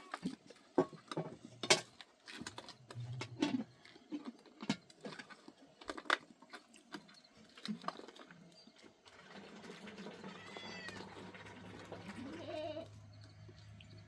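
Goats bleating in short calls, one rising call near the end, over scattered sharp clicks and knocks.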